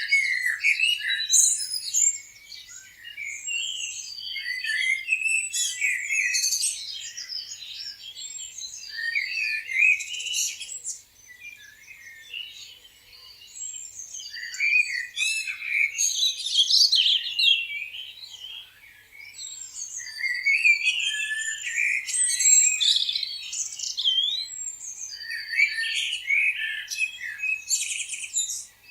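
A chorus of many songbirds chirping and warbling at once, overlapping high calls in busy bursts with short lulls between them.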